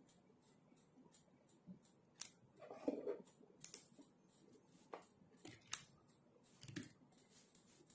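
Computer keyboard typing, quiet and uneven: a run of short key clicks with pauses, and a duller soft knock about three seconds in.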